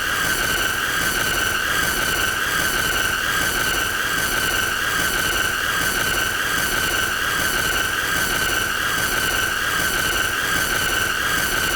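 A continuous high-pitched squealing tone that never changes in pitch or loudness, with a row of overtones above it over a rough hiss, played as a long loop of an annoying sound.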